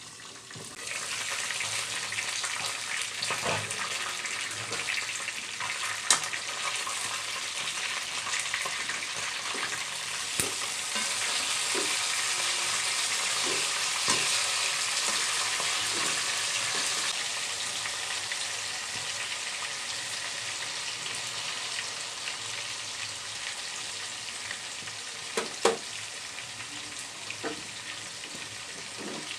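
Tandoori-marinated chicken pieces frying in hot soybean oil in a frying pan: a steady sizzle with a few sharp pops of spitting oil.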